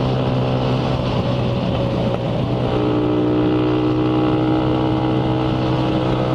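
Motorcycle engine running at speed, its note wavering unevenly for about a second and a half before settling steady again. The owner puts such little cut-outs down to a carburettor that falters at high revs.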